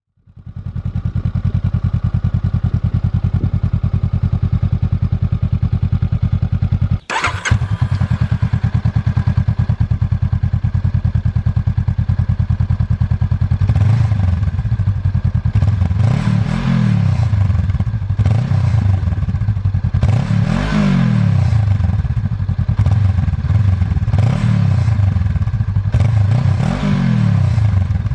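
Honda Rebel CMX500's parallel-twin engine idling steadily, with a short break about seven seconds in. From about halfway it is revved in a series of about six blips, the note rising and falling each time.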